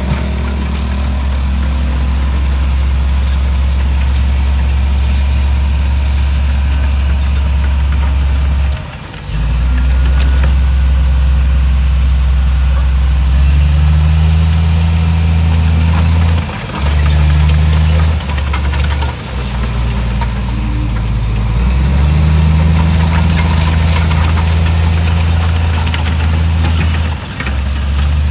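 Heavy diesel engine of earthmoving machinery running loudly and steadily under work, its low note stepping up and down a few times with brief dips as the load or throttle changes.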